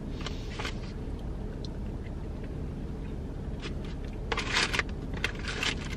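Close-miked chewing and mouth sounds of someone eating, in several short bursts, over a steady low hum in a car's cabin.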